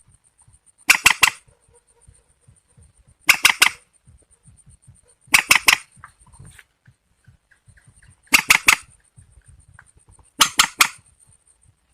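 Repeated calls of a rail, a swamphen or waterhen: five bursts of three or four sharp notes each, about every two seconds. A faint, high, rapidly pulsing tone runs underneath.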